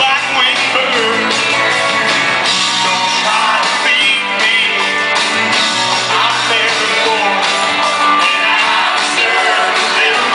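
Live rock band playing at full volume with a lead singer carrying the melody, recorded from the audience.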